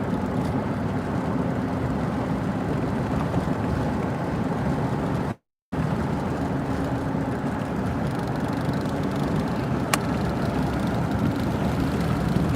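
Steady road and engine noise from a moving vehicle, with the sound cutting out completely for a moment about five seconds in and a single sharp click near the ten-second mark.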